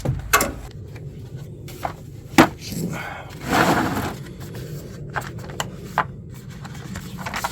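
Scattered clinks, knocks and scrapes of hand tools and hardware being handled, with one sharper knock about two and a half seconds in.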